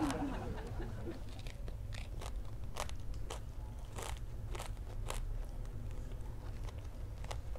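Close-up chewing of a deep-fried sausage coated in crispy instant noodles: irregular, sharp crunches as the fried crust breaks between the teeth.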